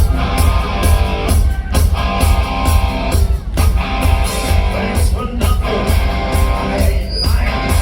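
Live hard rock band playing an instrumental passage: electric guitars, bass and drums, with heavy low end and a steady, evenly spaced drum beat.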